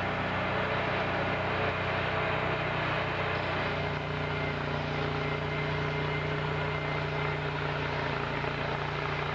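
A sawmill's engine running steadily at speed, having just come up to revs.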